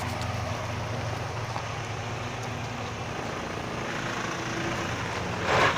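Truck engine running steadily with a low hum. About five and a half seconds in there is a short, loud rush of noise.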